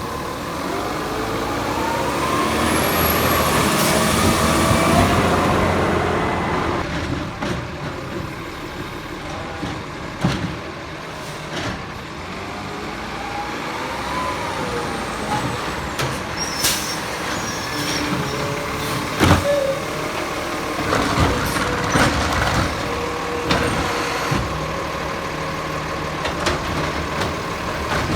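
Diesel McNeilus Zero Radius garbage truck working: the engine revs up and down twice, with scattered clanks and knocks, one of them loud about 19 seconds in.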